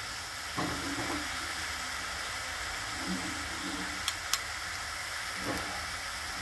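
Prawns, onion and sorrel leaves frying in oil in an aluminium pot, a steady sizzling hiss. Two sharp clicks come about four seconds in.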